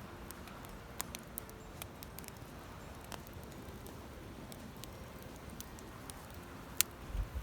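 Wood campfire crackling faintly, with irregular sharp pops, the loudest one near the end.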